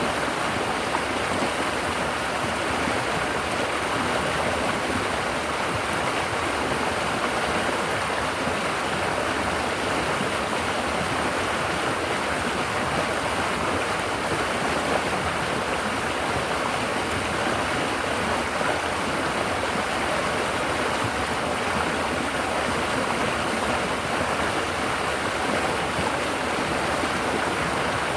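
Shallow river water babbling steadily over rocks and along the bank.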